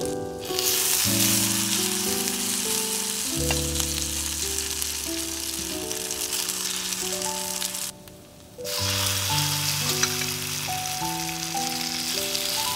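Food frying in a hot pan, a steady sizzle that cuts out for a moment about two-thirds of the way through, over soft background music.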